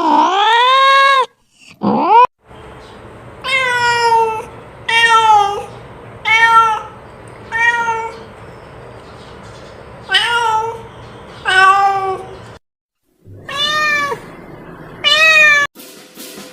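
Domestic cat meowing over and over, about ten separate meows, each rising and then falling in pitch, over a steady low background hum.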